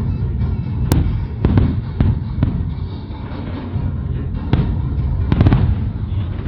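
Aerial fireworks shells bursting in a large display: a string of sharp bangs, the strongest about a second in and a cluster about five seconds in, over a continuous low rumble of overlapping distant bursts.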